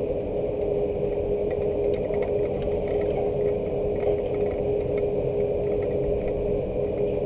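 Rain falling, heard as faint scattered drips and taps over a steady low mechanical hum that holds one tone.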